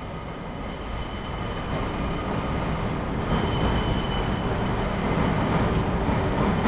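Tobu Spacia limited express train crossing a steel railway bridge, the running noise of wheels on rails growing steadily louder, with a thin high wheel squeal for about a second around the middle.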